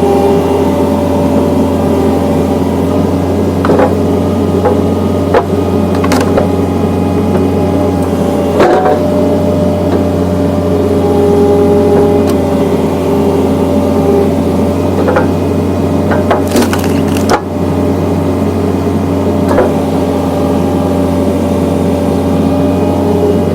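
Skid steer engine running steadily while its hydraulic log-splitter attachment forces seasoned poplar logs against the blade. The wood cracks and splinters several times, with a longer bout of splitting about two-thirds of the way through.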